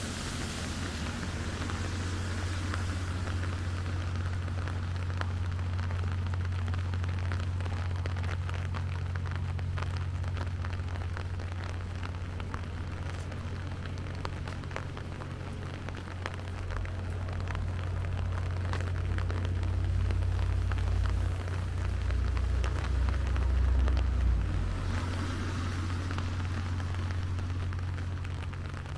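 Rain falling, many small drop hits pattering over a steady low hum. A deeper low rumble swells in about 17 seconds in and fades out by about 25 seconds.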